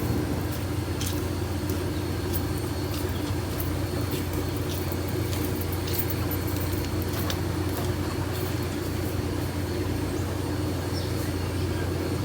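Steady low mechanical drone from a train, holding an even level, with scattered faint clicks over it.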